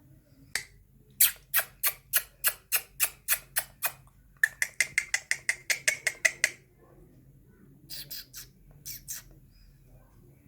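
Ringneck parakeet giving repeated harsh squawks: a run of about ten sharp calls, then a faster run at a steadier pitch, and a few fainter calls near the end.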